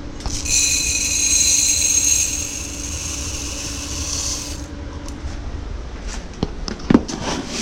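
Dry jasmine rice being poured, a grainy rattling hiss lasting about four seconds, followed by a couple of sharp knocks near the end.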